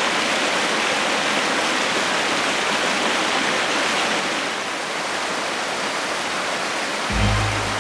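Waterfall: a steady rush of falling, splashing water. Low music notes come in near the end.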